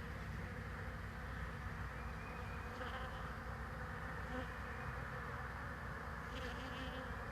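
Honeybees from a swarm buzzing around a hive, a steady hum with single bees buzzing close past a couple of times.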